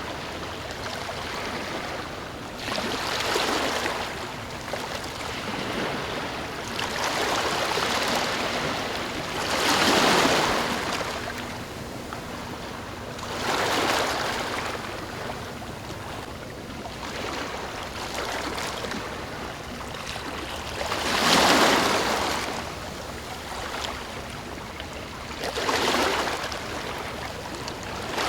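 Ocean waves breaking and washing onto a shore, each wave swelling and fading every three to five seconds over a constant background wash.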